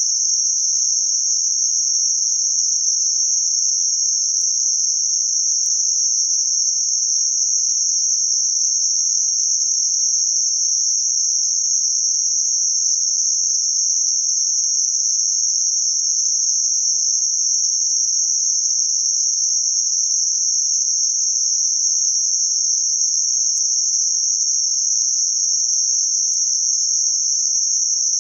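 Synthetic band-limited noise centred around 6051 Hz: a steady, high-pitched hiss with no low or mid tones, unchanging throughout.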